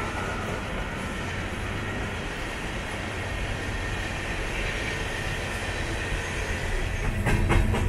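Coal hopper cars of a long freight train rolling past, a steady rumble and rattle of steel wheels on rail. Near the end come a few sharp clacks, and the sound grows louder with a low diesel hum as the rear locomotive draws near.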